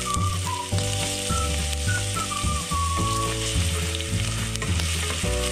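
Strips of ginger sizzling in hot oil in a stainless steel pot as they are sautéed and stirred with wooden chopsticks.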